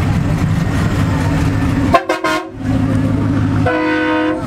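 Vehicle engines running with a steady low rumble, cut by a brief horn blast about two seconds in and a held horn honk near the end.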